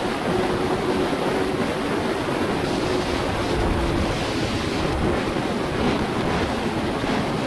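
Wind rushing over the microphone of an Aprilia RSV4 1100 Factory motorcycle at speed, with the V4 engine's faint steady hum underneath.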